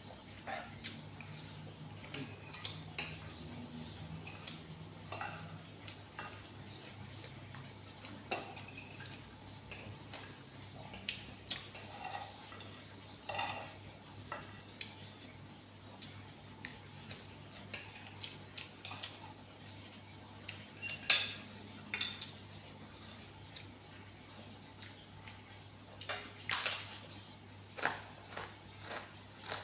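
Utensils clinking and scraping against a bowl at irregular intervals while eating noodles, with a few louder knocks about two-thirds of the way through. A faint steady low hum underneath.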